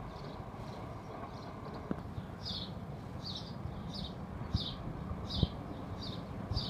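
A bird chirping the same short, high note over and over, about one and a half times a second, growing louder a couple of seconds in, over a steady low rumble.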